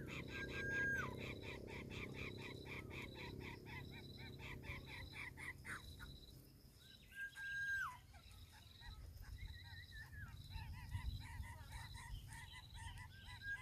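Outdoor chorus of frogs and insects: a fast pulsing chorus that fades out about six seconds in, over a steady high insect trill. A short level whistled note that drops off at its end comes three times, about six seconds apart.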